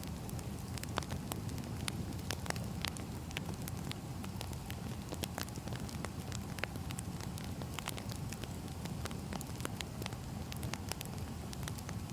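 Burning firewood crackling steadily, with frequent irregular sharp pops and snaps over a low rumble of the fire.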